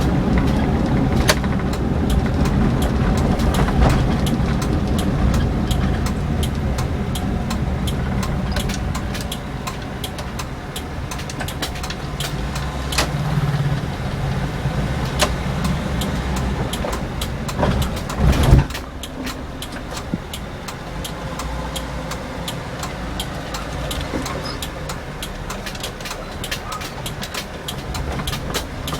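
1996 Toyota Kijang Super SX with its 7K four-cylinder petrol engine running while driving, with road noise and many short clicks and knocks throughout. A louder knock comes about eighteen seconds in, and the engine sound eases somewhat in the second half.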